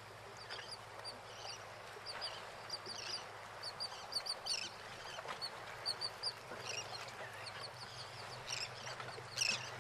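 Faint bird calls: many short, high chirps scattered through the quiet, with a louder call near the end.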